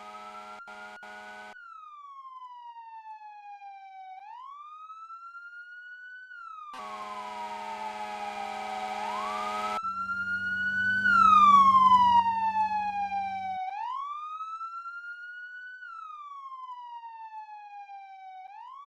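Emergency-vehicle electronic siren wailing, slowly rising and falling in pitch about every five seconds, with blasts of a low horn over it near the start and again about seven seconds in. The siren passes close, loudest with a burst of vehicle rumble about eleven seconds in, then carries on.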